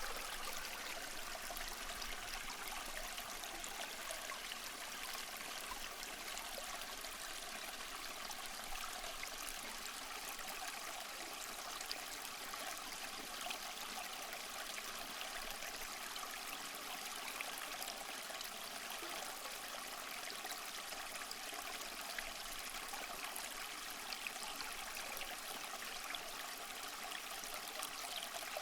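Water running steadily into a fish tank, a continuous trickling and splashing with a few faint small splashes or ticks.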